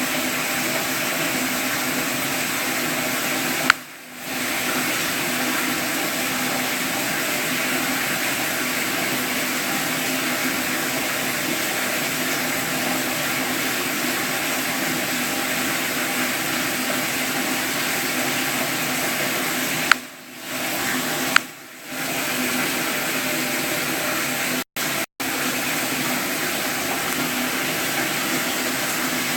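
Steady rush of running water. Three times a sharp click is heard and the rush briefly drops away, and near the end it cuts out twice for an instant.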